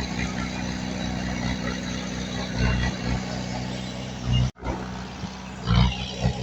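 Heavy-equipment diesel engine running steadily. A sudden brief dropout about four and a half seconds in, then the engine comes back with a couple of louder surges near the end.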